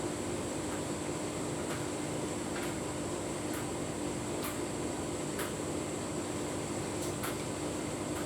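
Tumble dryer running with a full load of bedding: a steady motor-and-fan hum with a held tone, and faint light ticks recurring about once a second as it turns.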